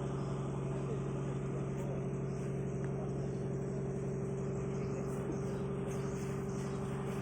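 Boat engine running at a steady, even pitch, a constant drone with no change in speed.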